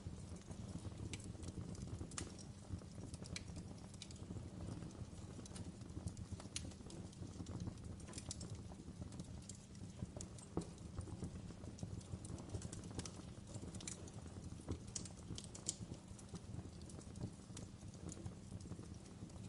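Wood fire in a fireplace crackling: irregular sharp pops and snaps over a low, steady rumble of the burning logs.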